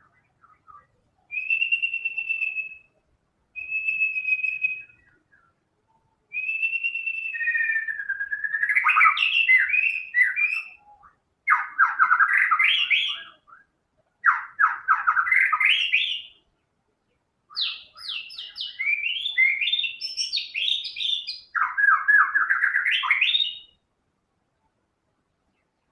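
White-rumped shama singing. It starts with a few clear, steady whistled notes, then moves into longer phrases of fast rattling trills and sweeping notes, separated by short pauses. It stops a couple of seconds before the end.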